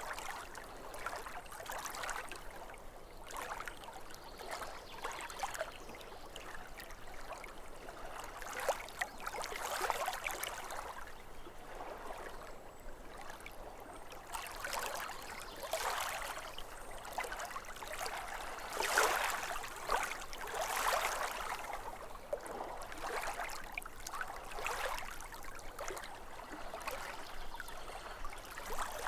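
Small waves lapping at a lake shore: a steady wash of water that swells irregularly every second or two, loudest about two thirds of the way through.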